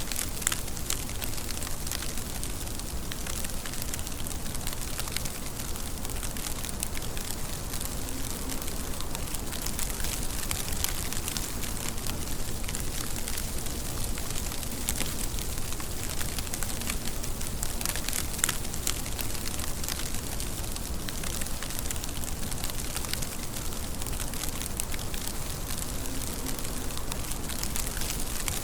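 Steady rain, a constant hiss with many small drop ticks scattered through it.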